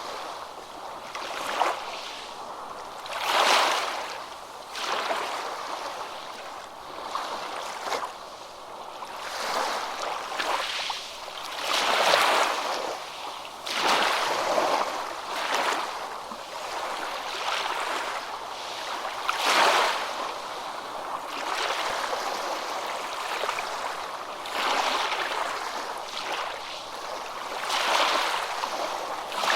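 Water washing in irregular surges a few seconds apart, a steady hiss that swells and fades, with no bird song standing out.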